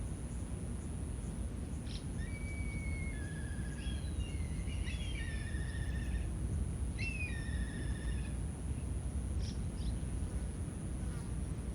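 A bird singing two runs of overlapping whistled notes, the first about two seconds in and the second around seven seconds, then a few short chirps near the end, over a steady low background rumble.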